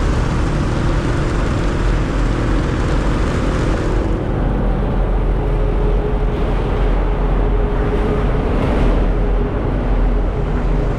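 Steady, loud noise of a motorcycle ride through a road tunnel: engine hum with traffic noise that sounds noisy in the enclosed tube, over heavy wind rumble on the camera's microphone. The high hiss thins out about four seconds in.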